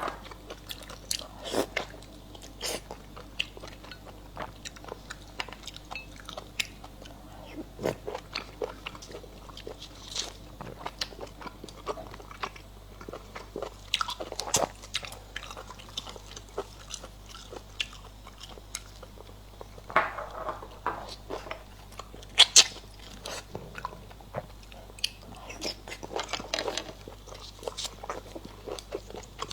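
A person eating close to the microphone: chewing and biting, with irregular crunches and wet mouth clicks.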